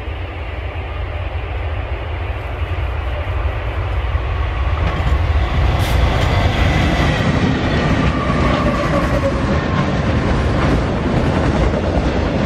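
Norfolk Southern freight train passing: two diesel locomotives grow louder as they approach and go by about six seconds in, followed by autorack freight cars rolling past with their wheels ticking on the rails.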